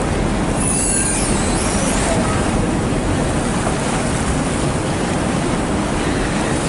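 Steady rushing noise of wind and water, with a brief faint high squeal about a second in.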